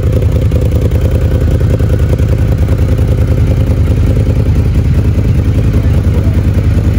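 Yamaha VMAX 1700's V4 engine, chipped to about 206 hp, idling steadily in neutral with a fast, even exhaust pulse.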